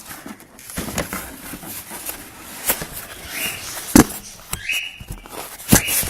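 Cardboard packaging being handled and pulled open: rustling and scraping with a few sharp knocks, the loudest about four seconds in, and short squeaky rubs.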